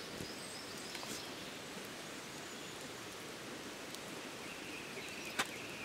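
Steady hiss of light rain, with one sharp click near the end.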